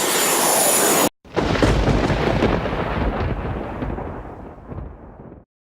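A loud rising noise cuts off abruptly about a second in. A deep rumble like rolling thunder follows at once and fades away over about four seconds, ending in silence.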